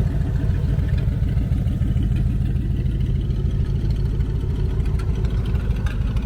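A car engine running steadily at idle, loud and close, with a rapid even pulse in its exhaust note.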